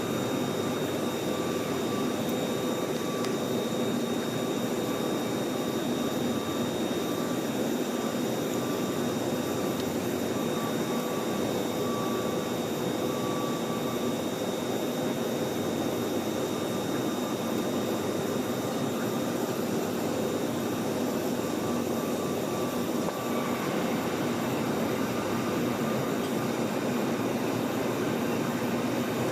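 Steady jet-engine and airflow noise heard inside the cabin of a Boeing 737-900ER airliner, with several constant whining tones over it; one of the tones stops about two-thirds of the way through.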